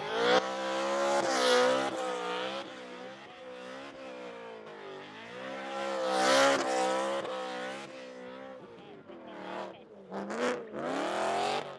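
A car engine revving hard in long rising and falling swells, with tyres squealing at the peaks, as the car is driven in a drift or burnout on a tyre worn down to the wire and about to blow.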